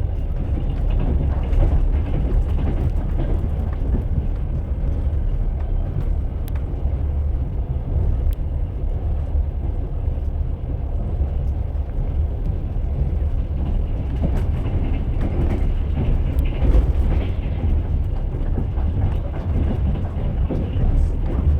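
Moving train: a steady low rumble with the wheels knocking over the rail joints.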